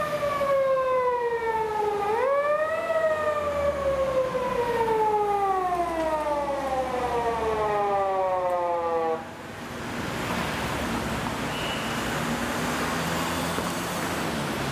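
Japanese police car siren wailing, its pitch sliding slowly down, rising briefly about two seconds in, then falling again until it cuts off about nine seconds in. Steady traffic and street noise follows.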